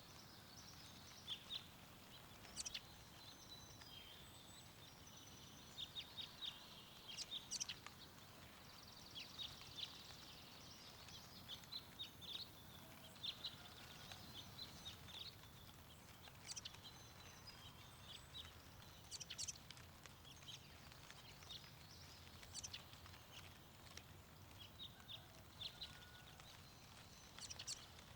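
Small birds chirping and singing in short, scattered calls over a faint steady background hiss of wind.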